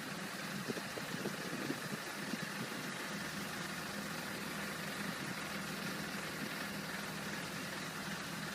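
Road sweeper truck running steadily: a constant engine hum over an even hiss, with a few light clicks in the first two seconds or so.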